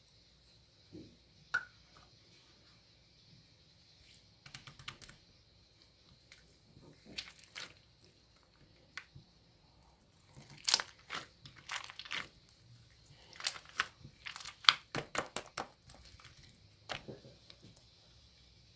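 Irregular crinkling and clicking handling noises, in scattered short bursts that come thickest in the second half.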